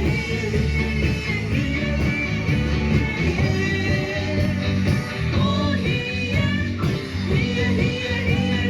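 Live band playing an upbeat rock-and-roll song, a melody line winding over a steady beat.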